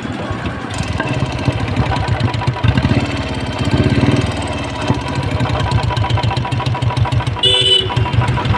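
Royal Enfield Bullet single-cylinder engine idling with an even rhythmic pulse and the 'tik tik' sound that is the problem to be solved. A short high tone sounds briefly about seven and a half seconds in.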